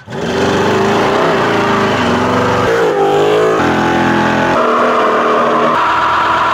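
Loud car engines running and revving, their pitch jumping abruptly to new notes every second or so.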